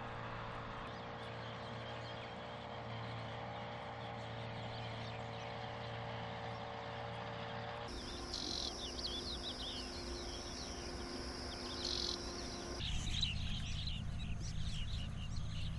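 A steady motor drone for about eight seconds, then, after a cut, small birds chirping in quick high calls over a low rumble.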